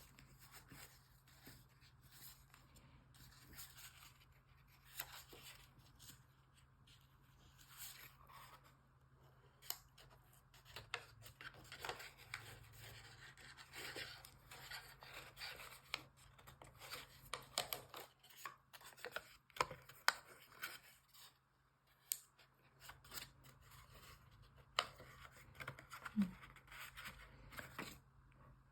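Origami paper being folded and creased by hand: faint rustling and crinkling with many small, irregular clicks as the creases are pressed.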